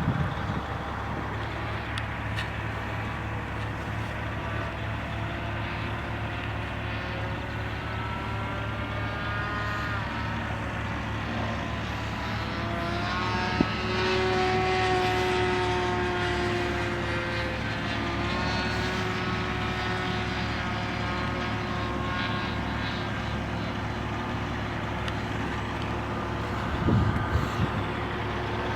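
Propeller plane flying past, its engine tone sliding in pitch as it approaches and moves away, loudest about halfway through, over a steady low rumble.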